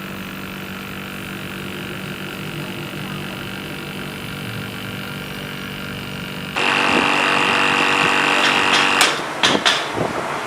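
An electric motor hums steadily. About six and a half seconds in, a louder, harsher power tool with a high whine starts up, then stops about two seconds later, followed by a few sharp knocks and clicks near the end.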